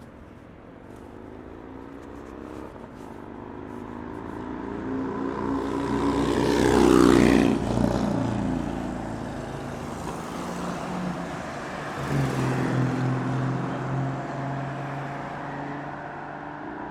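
Jet airliner passing close by, the engine noise building over several seconds to a peak about seven seconds in, then slowly fading. A second, steadier engine hum rises briefly about twelve seconds in.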